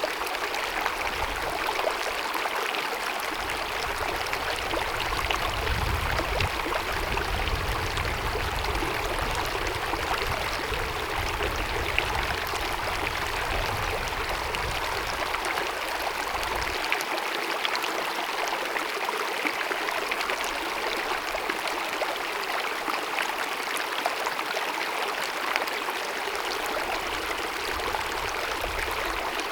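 Small mountain stream babbling and gurgling over rocks, a steady rush of water with small splashes throughout. A low rumble comes and goes in the first half and fades out a little past halfway.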